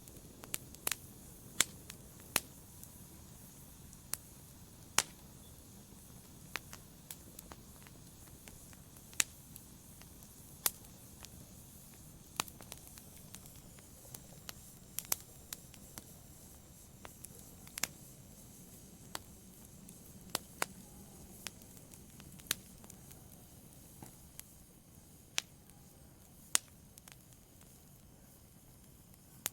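Wood fire crackling in a fireplace: sharp, irregular pops, about one or two a second, over a faint low hiss.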